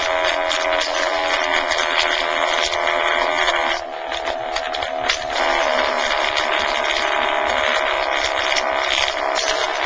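Roadmaster 10-inch car subwoofer in a small ported box, overdriven on a bass test track, giving a harsh, steady buzzing drone that dips briefly about four seconds in. The sub is being pushed toward failure.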